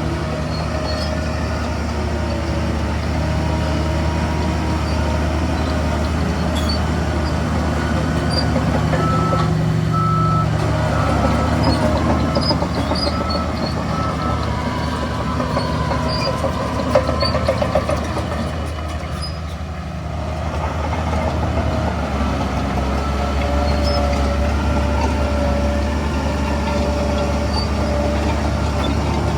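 Heavy diesel engines of a Shantui bulldozer and dump trucks running together in a steady drone that swells and eases. A reversing alarm beeps briefly about a third of the way in, and there is one sharp knock a little past the middle.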